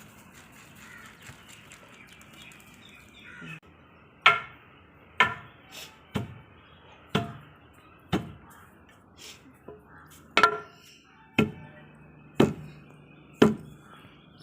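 Pestle pounding sorghum grain in a mortar: about ten heavy, even strikes, one a second, starting about four seconds in. The half-broken grains are being crushed a second time into flour.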